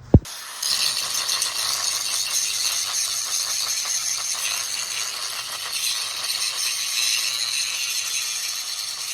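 A short thump, then an angle grinder grinding steel, steady and hissy with a fine rattle, as pits and cracks are ground out of the damaged corners of a steel anvil face.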